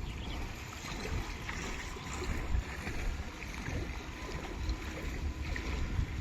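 Water sloshing and splashing, with scattered small splashes and a constant, uneven wind rumble on the microphone.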